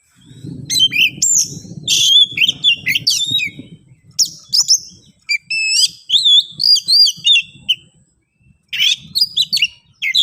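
Oriental magpie-robin (kacer) singing a fast, agitated run of varied whistles, chirps and harsh notes, with a brief pause near the end. This is its aggressive fighting song, challenging a rival.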